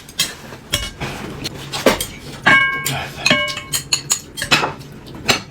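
Tableware clattering during a meal: chopsticks and utensils clicking against ceramic bowls and plates in a run of sharp clicks, with a bowl ringing briefly after two of the strikes, about halfway through.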